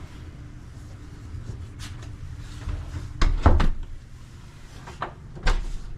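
A door being swung shut and latched after its loose, stripped screws were replaced with bigger ones. There are a few light clicks, then two sharp knocks a little over three seconds in as it shuts, and more knocks near the end.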